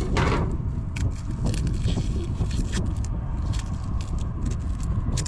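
Wind rumbling on the microphone, with scattered light clicks and knocks and a short hiss at the start.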